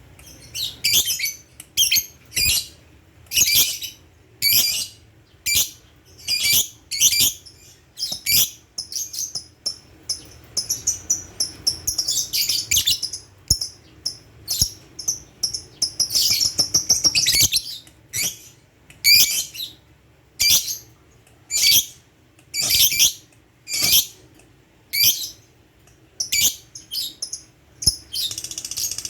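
Lovebird chirping in short, high bursts about once a second, with two longer chattering runs near the middle.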